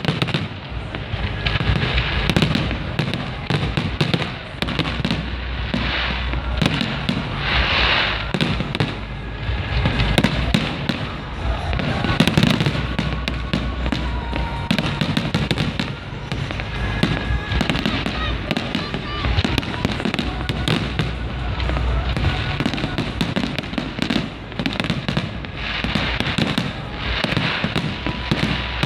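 Fireworks display: a dense, continuous run of bangs and crackling bursts from aerial shells, going off in quick succession.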